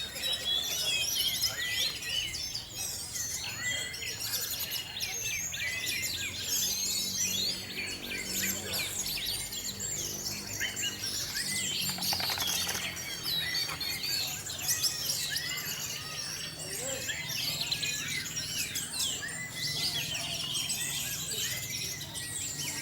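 Many caged songbirds singing at once in a kolonian gathering: a dense, overlapping chorus of chirps and whistles, with a low steady hum underneath.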